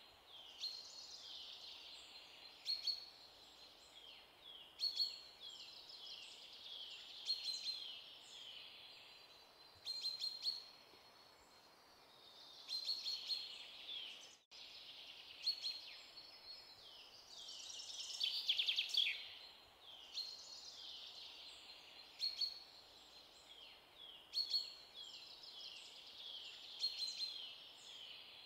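Songbirds chirping: repeated quick runs of high, falling chirps coming in waves, with a brief dropout about halfway.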